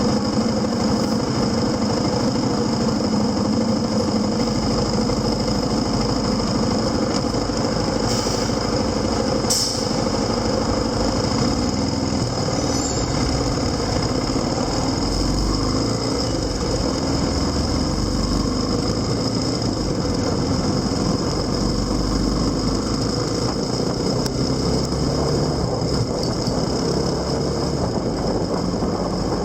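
Motorcycle engine running under way, its pitch rising and falling a few times as the speed changes, over a steady low rumble of wind and road noise.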